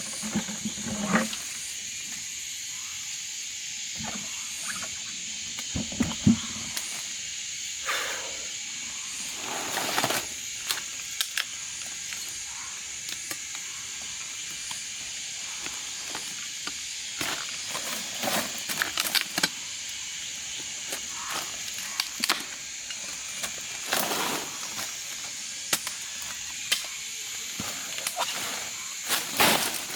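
Steady high-pitched insect drone, with scattered knocks and rustles of handling now and then.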